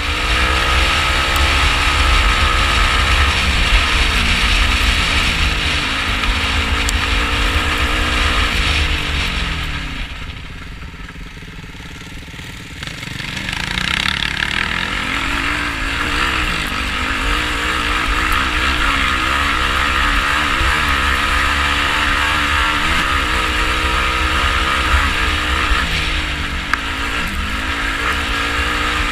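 Yamaha YFZ450R quad's single-cylinder four-stroke engine revving, its pitch rising and falling over and over as it rides. The engine eases off for about three seconds around ten seconds in, then picks up again, over a steady low rumble.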